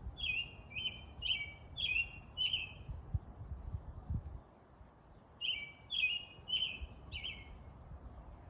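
A songbird singing two phrases of repeated chirping notes, about two a second: five notes, a pause of a few seconds, then four more. Underneath is a low outdoor rumble.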